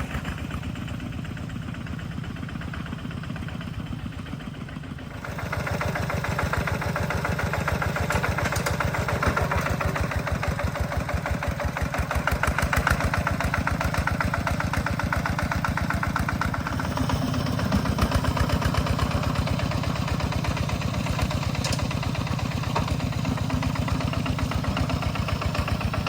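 An engine running steadily with a fast, even throb, stepping up louder about five seconds in.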